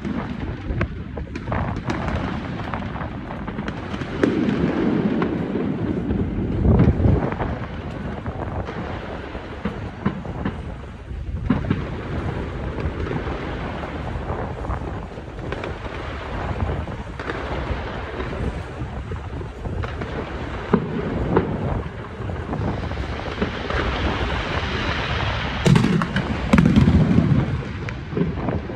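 Fireworks display: a dense, continuous run of aerial shell bursts, low booms overlapping with sharp cracks and crackle. The booms are heaviest about five seconds in and again near the end.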